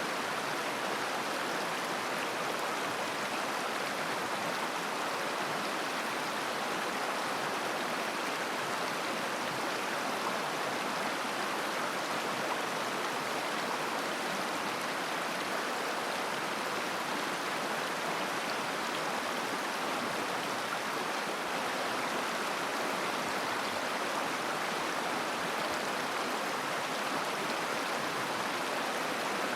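Steady babbling of a mountain river flowing over stones, an even rushing with no breaks.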